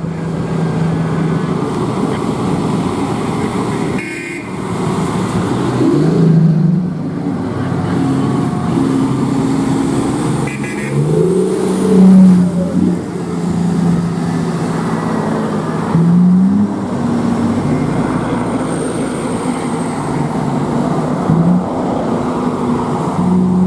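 Komatsu HD785-7 dump truck's large diesel engine running under way. Its note holds steady and then climbs several times, as it revs and shifts.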